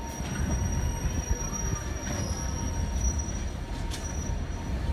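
Passenger train rolling along the rails, heard from on board: a steady low rumble with thin, high, steady tones held above it, like wheels squealing on the rail.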